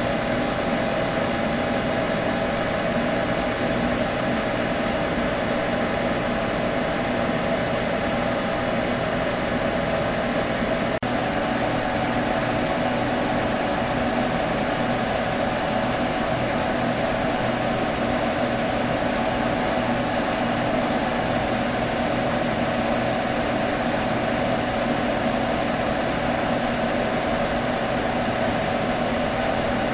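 Computer humming steadily, an even whirring drone with a few held tones in it that stays unchanged in pitch and loudness.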